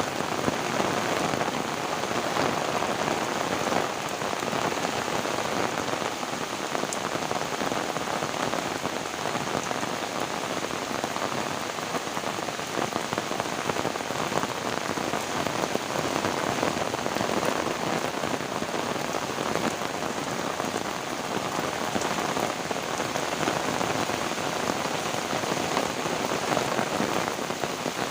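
Heavy rain falling steadily on surfaces, a dense hiss made of countless fine drop impacts.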